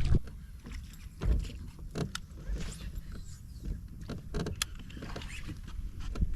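Scattered short clicks and knocks of gear being handled on a fishing boat, over a low rumble.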